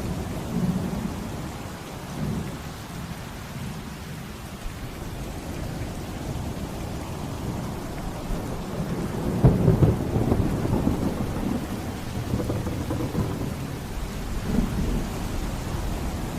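Steady rain with low, rolling thunder; the thunder swells into a louder rumble a little past halfway and dies away over a few seconds.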